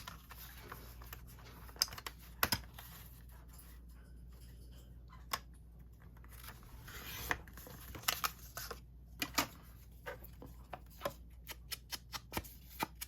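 Light clicks and taps of paper and a small paper trimmer being handled on a table, with a short scraping stretch about seven seconds in.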